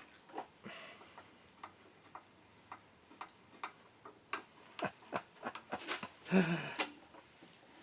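Irregular sharp clicks and small knocks of metal and wood as a log blank is fitted between the drive center and live center of a wood lathe. The clicks come faster from about four seconds in, with one louder knock and scrape about six seconds in.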